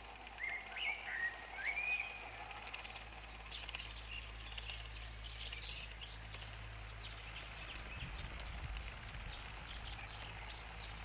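Birds chirping: a few gliding calls in the first two seconds, the loudest sounds here, then scattered short chirps, over a steady low hum and a background hiss.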